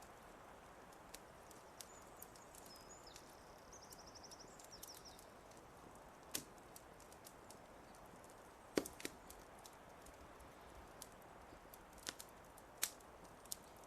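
Wood fire crackling quietly with a soft steady hiss, broken by sharp single pops; the loudest comes about nine seconds in. A small bird sings a short, fast trill about three to four seconds in.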